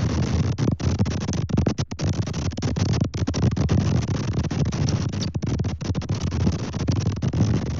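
Strong wind buffeting the nest camera's microphone: a loud, rough, steady rumble broken by many brief dropouts.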